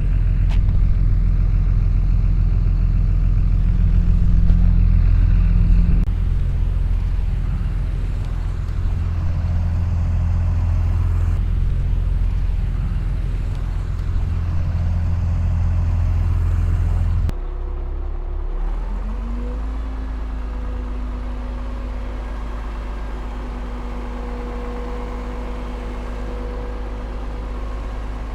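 Heavy diesel engine of earthmoving machinery running with a deep, steady drone. About two-thirds of the way through, the sound changes abruptly to a quieter engine with a whine that rises and then holds steady.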